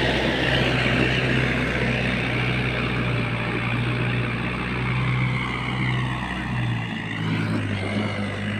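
Mahindra tractor's diesel engine running steadily under way, its note dipping slightly about seven seconds in.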